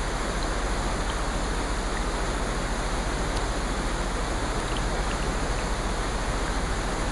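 Steady rain, an even hiss of falling water with a few faint scattered drip ticks.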